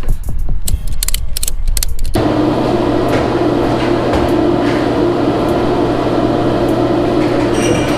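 Music with a heavy beat that cuts off abruptly about two seconds in, giving way to a steady mechanical hum.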